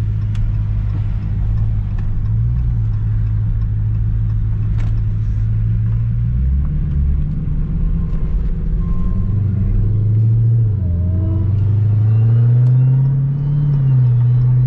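Car engine and road noise while driving. The engine's low hum shifts pitch a few times, rises as the car speeds up in the latter part, and drops back near the end.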